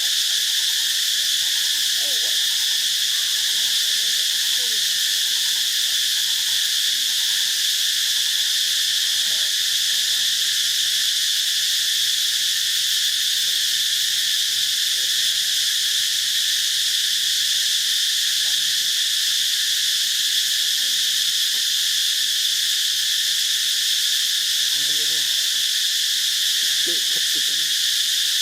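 Insects chirring in a dense, steady high-pitched chorus that holds at one level without a break.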